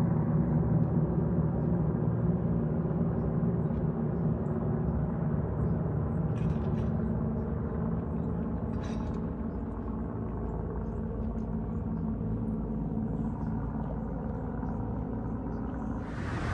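A steady low droning hum made of several held low tones, easing off slightly over the first half.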